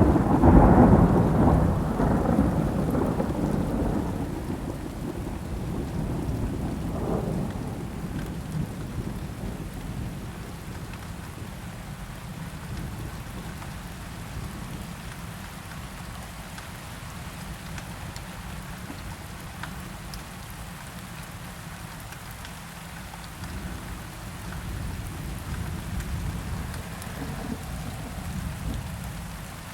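Thunder rumbling loudly at the start and fading away over several seconds, over steady rain that carries on throughout; a fainter rumble swells near the end.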